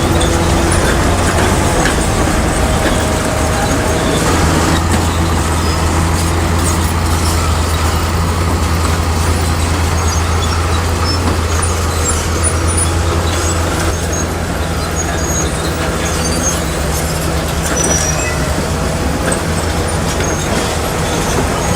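Heavy diesel engine of earthmoving machinery running steadily under load, a low drone that is heavier through the middle.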